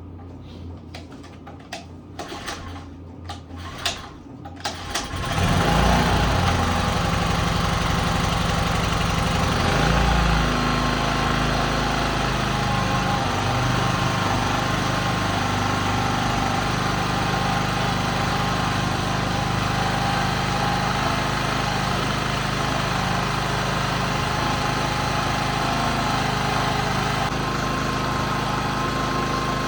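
A portable generator's small petrol engine is started without the choke, freshly reassembled after valve lapping. A few short clattering cranking sounds come first, then the engine catches about five seconds in and runs steadily.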